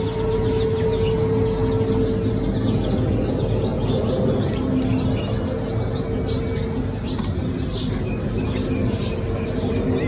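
Birds chirping: a continuous run of short, high, falling chirps, several a second, over a steady low background rumble.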